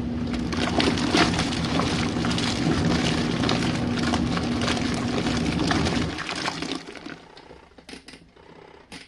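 Compact RV washing machine agitating a load of cold rinse water: a steady motor hum under water sloshing and churning, which winds down and stops about six seconds in.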